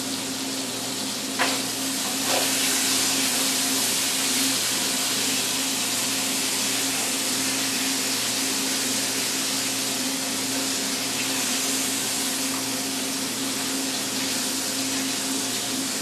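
Liver and onions frying in a pan, a steady sizzle over the steady hum of a kitchen exhaust fan. A couple of light knocks in the first few seconds.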